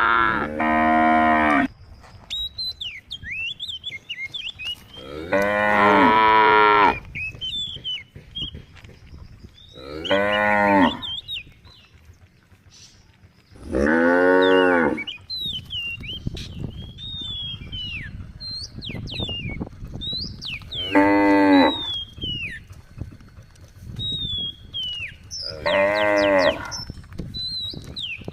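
Cows mooing repeatedly: six long calls a few seconds apart, each rising and then falling in pitch. Small birds chirp in between.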